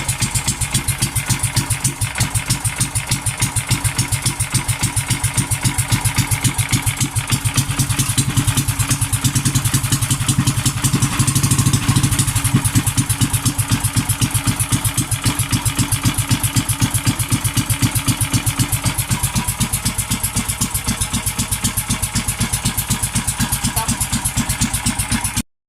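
Yamaha 18 HP gasoline engine, its governor gear removed, running with an even, rhythmic firing beat just after being pull-started on the choke. It grows a little louder about halfway, then runs steadily and cuts off suddenly near the end.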